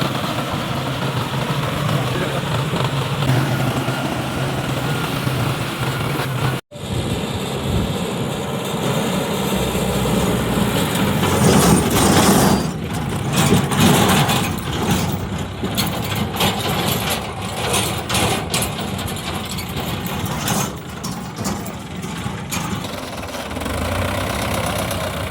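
Tractor diesel engine running, its sound rising and falling over the later part. The sound drops out abruptly for a moment about a quarter of the way in.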